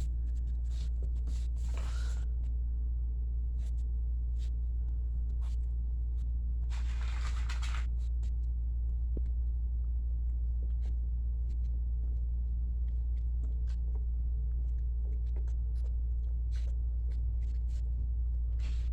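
A puppy playing with a toy on a floor: scattered light clicks and taps, with a short rustling scrape about two seconds in and a longer one about seven seconds in, over a steady low hum.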